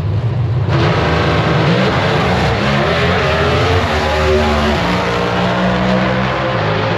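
Drag race car's engine opening up suddenly to full throttle a moment in and running loud, its pitch climbing, with the engine note shifting about five seconds in.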